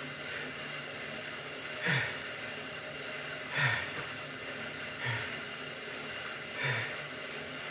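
A man breathing hard after exertion, with four heavy out-breaths, each carrying a short falling groan, about every one and a half seconds, over a steady low hum.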